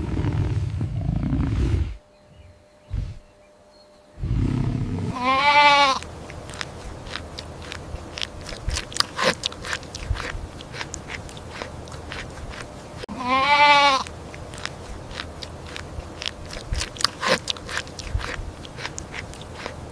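A goat bleats twice, a wavering, quavering call about five seconds in and again about thirteen seconds in, with rapid clicks and crunches in between like chewing. It opens on the tail of a loud, low roar that stops about two seconds in.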